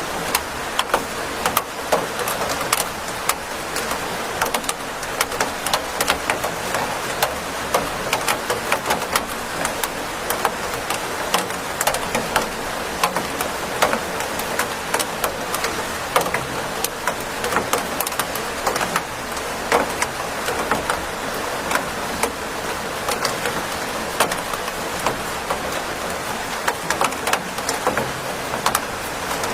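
Steady rain falling, a constant hiss dotted with frequent sharp clicks of single drops striking close by.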